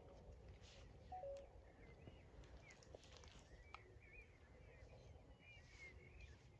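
Faint small birds chirping and twittering in short, wavering notes, over a low steady rumble, with a brief lower two-note sound about a second in.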